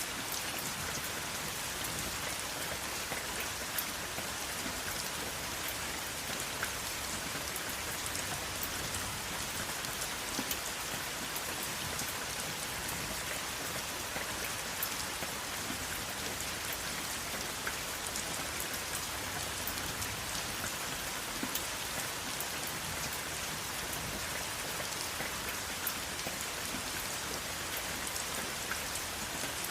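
Steady rain falling, a constant hiss with many small drop ticks scattered through it, and no thunder.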